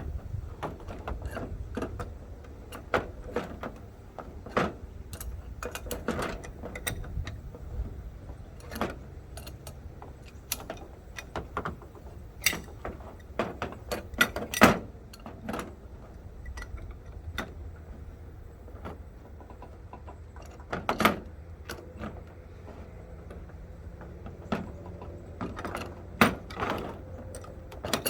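Wrench and metal pipe fittings of a pressure-washer bypass assembly clinking and knocking while the threaded fittings are tightened by hand: irregular sharp clicks and clanks, a few louder knocks, over a low steady rumble.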